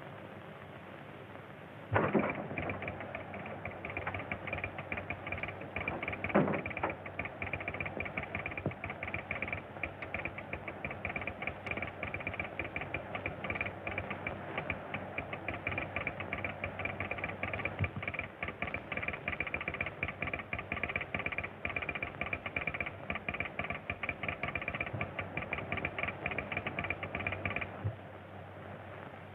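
A vehicle's machinery running: a rapid, even mechanical clatter that starts suddenly about two seconds in with a loud knock, carries on steadily with another knock a few seconds later, and stops shortly before the end.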